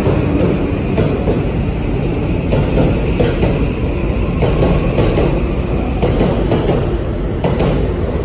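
A Toei 5500 series electric commuter train pulls out of the station and rolls past close by: a steady rumble of the cars, with wheels clicking irregularly over rail joints and a faint rising whine from the motors as it gathers speed.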